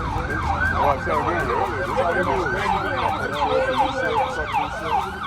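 Emergency vehicle siren going by in fast yelp mode, its pitch sweeping up and down about three times a second.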